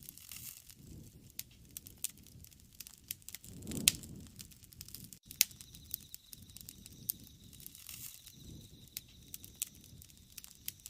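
Wood fire crackling, with sharp pops and snaps at irregular intervals, the loudest about four seconds in, over a soft low rush that swells and fades every few seconds.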